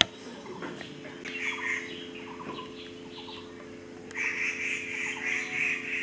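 Birds chirping outdoors, with a longer rapid trill about four seconds in, over a steady low hum. A sharp click at the very start.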